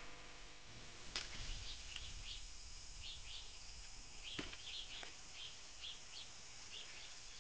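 Faint, short bird chirps repeating over quiet outdoor background, with a few soft clicks or snaps in between.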